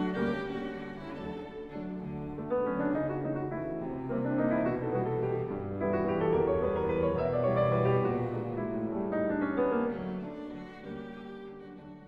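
Tamburitza ensemble playing: plucked tamburica strings with bass, a run of changing notes that dies away near the end.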